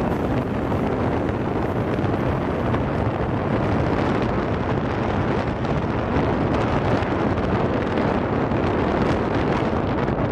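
Tamil Nadu Express passing close at speed: a loud, steady rumble of the coaches on the rails, with wind buffeting the microphone.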